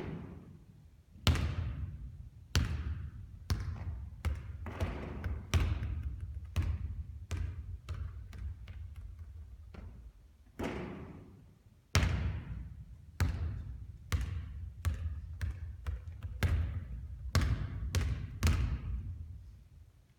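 Basketballs bouncing on a court during three-point shooting practice: many sharp bounces at uneven intervals, some in quick runs that die away as a ball comes to rest.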